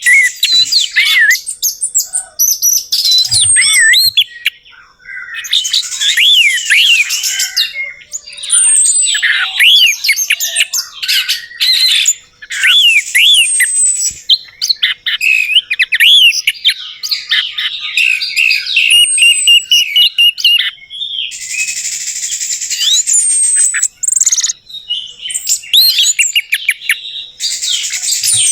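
Orange-headed thrush (anis merah) singing a rapid, varied song of whistles and chattering phrases, broken by short pauses every few seconds.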